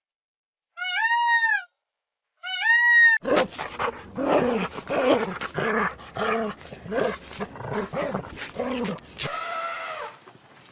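A series of animal calls: two high, arching cries about a second long, then a run of rapid, rough calls at about two a second for some six seconds, and a higher drawn-out call near the end.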